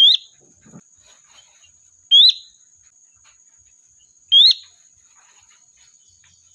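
Sooty-headed bulbul (kutilang) giving a loud, short, rising call three times, about two seconds apart, a lure call to bring in others of its flock.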